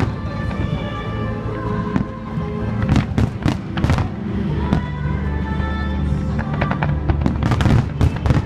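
Fireworks going off, with repeated sharp bangs that bunch into rapid clusters about three seconds in and again near the end, over music.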